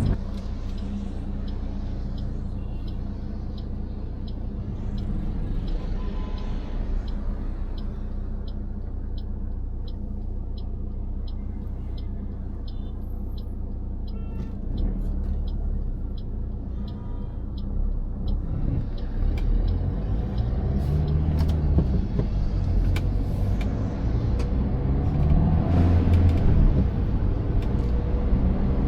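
Car cabin noise while driving: a steady low engine and road rumble, with a turn-signal indicator ticking about twice a second through the first half or so. Later the engine grows louder and rises and falls in pitch as the car gets moving again.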